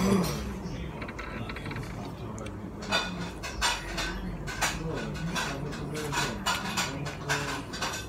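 Close-up eating sounds: chewing and biting into food, with a run of sharp crunchy clicks about two or three a second starting about three seconds in.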